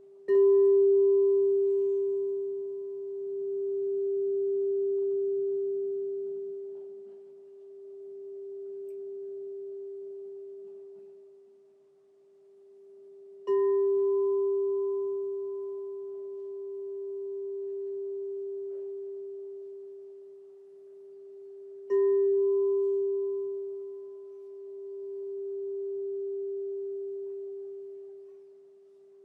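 Crystal singing bowl struck three times: just after the start, about halfway through and about three-quarters through. Each strike rings as one steady low tone with a fainter higher overtone, slowly swelling and fading in a pulsing wave as it dies away.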